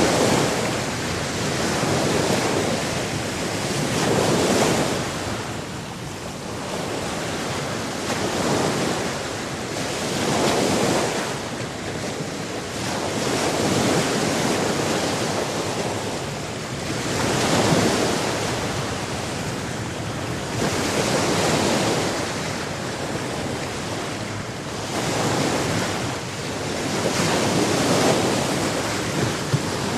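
Sea waves breaking and washing back on a shore, the surf swelling and falling away every three to four seconds.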